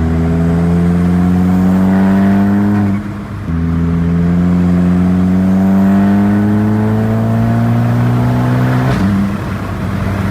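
Volkswagen Jetta GLI's turbocharged four-cylinder engine, fitted with an IS38 turbo, under hard acceleration. The revs climb steadily, dip and drop with an upshift about three seconds in, and climb again through the next gear. They fall away as the throttle is lifted near the end.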